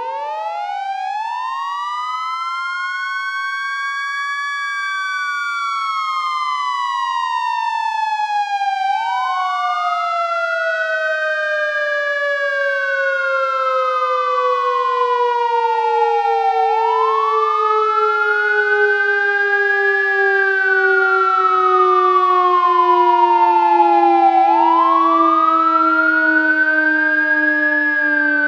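Warning siren wailing, its pitch rising and falling slowly about once every eight seconds, with a second steady tone sliding gradually lower underneath.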